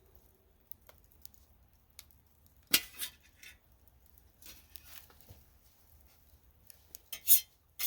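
A few scattered clinks and knocks of utensils against camp dishes, the sharpest about three seconds in and a cluster near the end.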